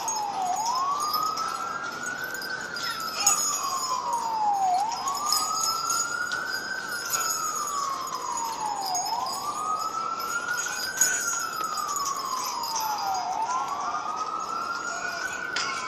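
A siren wailing: its pitch rises quickly, then falls more slowly, repeating about every four seconds.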